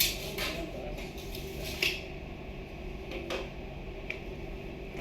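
A few scattered light clicks and knocks, like objects being handled, over a steady low background.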